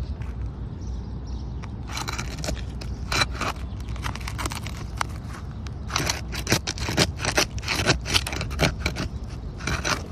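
Asphalt roofing shingles being pried up: a tool scrapes under the tabs and cracks the adhesive seal strips, in irregular scrapes and crackles that come thickest about two-thirds of the way through.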